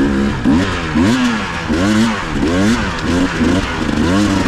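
Dirt bike engine revved up and down in quick repeated throttle blips, the pitch rising and falling about every half second, as the rider works the throttle through a difficult, bumpy section of trail.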